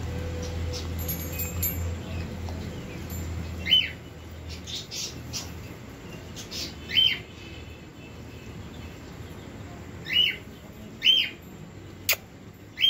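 Several short, sharp bird chirps a few seconds apart. A low rumble runs under the first few seconds and a single sharp click comes near the end.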